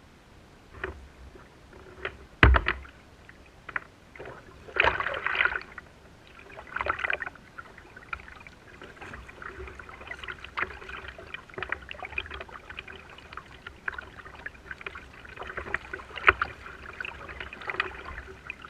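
Water splashing and sloshing around a kayak, with scattered knocks on the hull and one heavy thump about two and a half seconds in. There are short splashes around five and seven seconds, then steady splashing.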